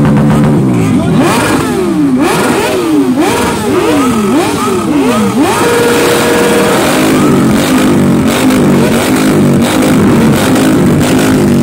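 Motorcycle engine revved hard and repeatedly with the throttle, the pitch sweeping up and falling back about once a second. Around the middle it is held briefly at high revs, then it settles into choppier revving at a lower pitch.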